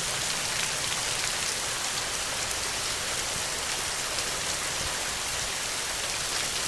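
Steady rain: an even hiss of many drops falling, with fine individual drop ticks and no change in strength.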